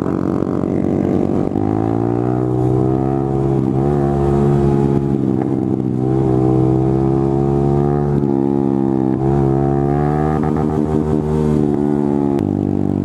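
Honda MSX125 (Grom) single-cylinder engine with an aftermarket exhaust, running under way. The pitch steps up about a second and a half in, shifts up and down a few times as the revs change, and drops near the end.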